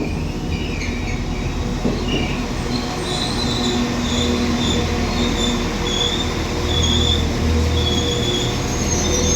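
Northern Class 195 diesel multiple unit pulling into a station, its engine and running gear rumbling as it comes closer. From about three seconds in, a high-pitched squeal comes and goes as it rolls in.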